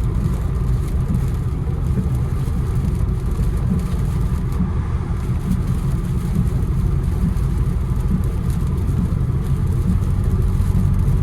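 Infiniti Q60 driving at a steady pace on a rain-soaked road: a constant low drone of engine and tyre noise with a wet road hiss, no sudden events.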